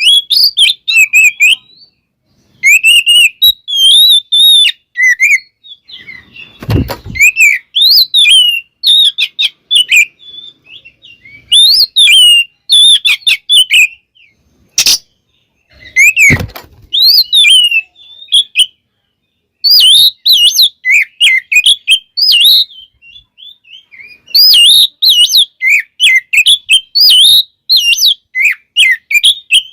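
Oriental magpie-robin singing loudly and close up in rapid bursts of varied whistled and chattering phrases, broken by short pauses. Two dull thumps come about 7 and 16 seconds in.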